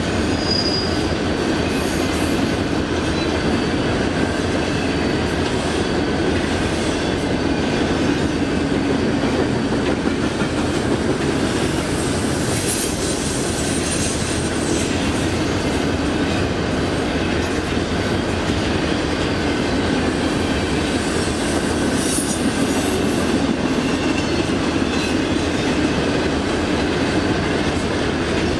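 A train rolling past on the track, its wheels and cars making a steady, unbroken noise, with a brief faint high wheel squeal near the start.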